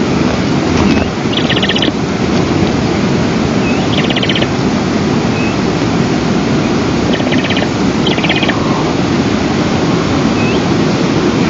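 Wind blowing over the nest camera's microphone as a loud, steady rush. Above it, several short, rapid high trills and a few single rising chirps from small birds come and go.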